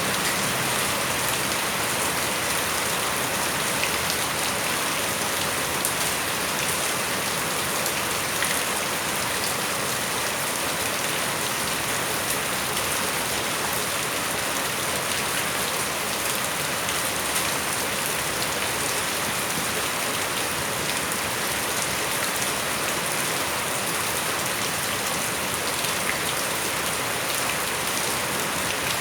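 Steady rain falling on surfaces, a constant hiss with a few sharper drop ticks here and there.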